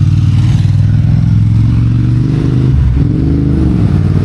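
Motorbike engine running close by on the street, its revs dipping and then rising again about three seconds in.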